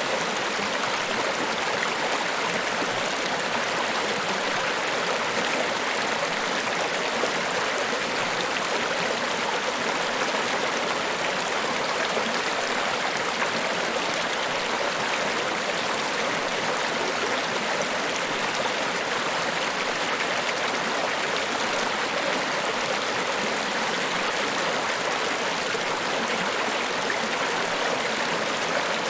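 Niagara Falls: a steady, even rush of falling water, with no change in level.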